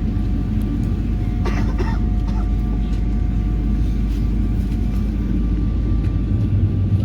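Cabin noise inside a taxiing Boeing 777: a steady low rumble from the GE90 engines at idle and the air system, with two faint steady tones over it. Near the end a deep hum grows louder.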